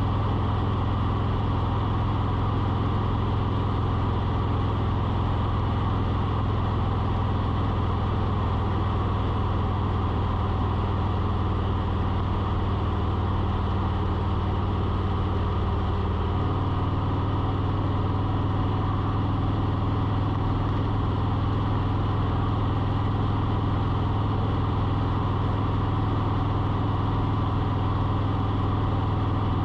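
A steady low mechanical hum that shifts slightly in pitch about sixteen seconds in.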